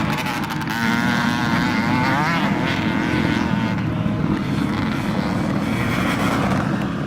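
Motocross motorcycle engines revving, their pitch rising and falling as the riders work the throttle round the track.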